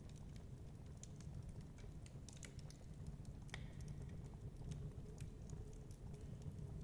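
Wood fire crackling in a fireplace: scattered sharp pops and ticks, with one brighter snap about halfway through, over a steady low rumble.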